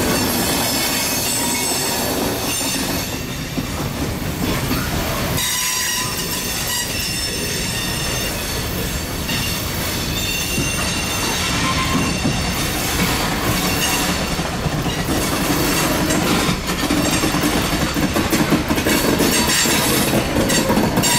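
Loaded freight cars of scrap iron rolling past: a steady rumble and clatter of steel wheels on rail, with thin high wheel squeals coming and going.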